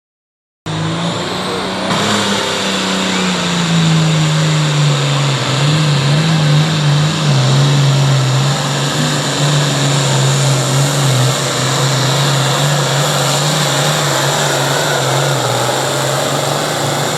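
Classic Super Stock pulling tractor's diesel engine running hard under full load, cutting in abruptly just under a second in and then holding a loud, steady drone with a slight waver in pitch.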